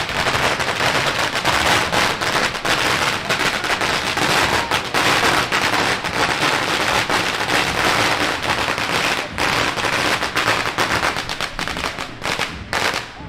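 Firecrackers going off in a dense, rapid string of cracks and bangs that thins out to separate reports near the end.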